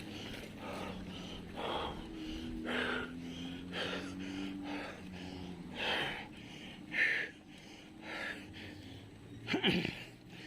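A cyclist breathing hard, with a loud breath about every second, over a faint low steady hum.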